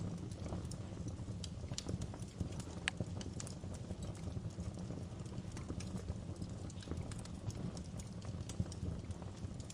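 Wood fire burning in a fireplace: irregular sharp crackles and snaps from the burning wood over a steady low rumble of the flames.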